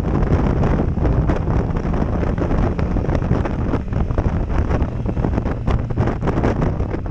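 Heavy wind noise on a helmet-mounted GoPro Session microphone while riding a motorcycle at road speed: a dense low rumble with irregular gusty flutters.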